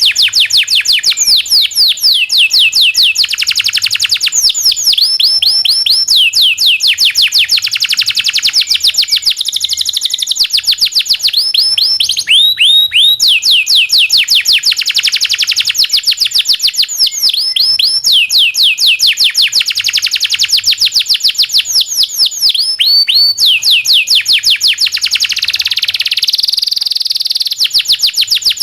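Domestic canary singing without a break in long rolling trills. Each trill is a fast run of identical sweeping notes, and the song switches to a new note type every second or two.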